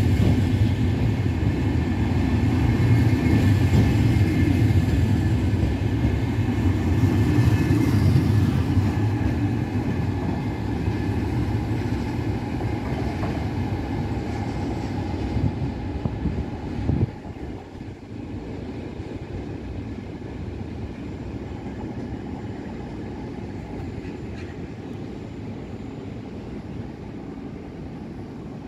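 VR double-deck InterCity electric train rolling past along the platform: a loud low rumble of wheels on rails with a steady high electric whine, fading through the first half and dropping off suddenly about two-thirds of the way in, leaving a quieter steady rumble of trains further off.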